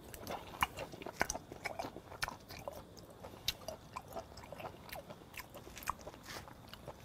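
Close-miked chewing of raw flounder sashimi: a mouthful chewed with soft, irregular wet clicks and smacks, a few each second.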